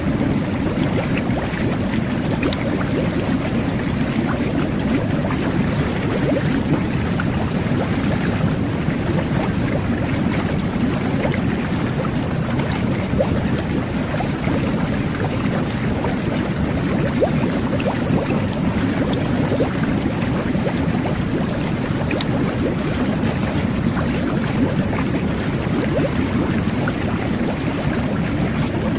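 Jet bath running: water churning and bubbling steadily from the whirlpool jets, with a deep, even rush and a constant fizz of small bubbles.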